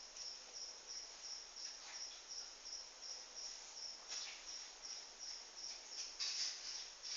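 Cricket chirping steadily: a high, even pulse repeating about two to three times a second. Soft rustling noises come in about four seconds in and again, louder, about six seconds in.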